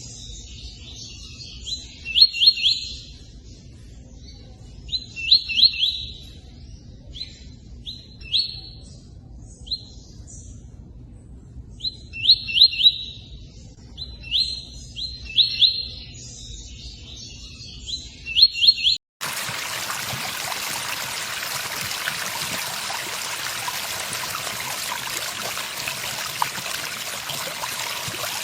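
Tui-tui bird singing short, quick phrases of three to five sharp repeated notes, one phrase every three seconds or so. About two-thirds of the way in, the song cuts off suddenly and a steady sound of running water takes over.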